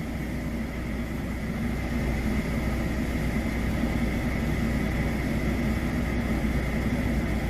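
Heavy diesel engine of a 44-ton lorry running steadily at low revs while the truck reverses slowly, a little louder after the first couple of seconds.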